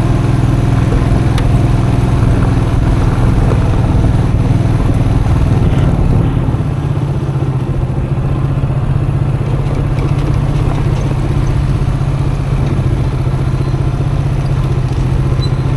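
Custom motorcycle engine running steadily at low speed while riding off-road. The engine note drops slightly about six seconds in, then holds steady.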